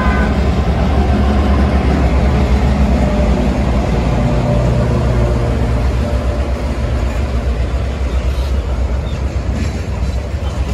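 Two diesel-electric freight locomotives passing close by, their engines running with a deep, steady hum. After about six seconds the engine sound fades and freight cars roll past, their wheels running on the rails.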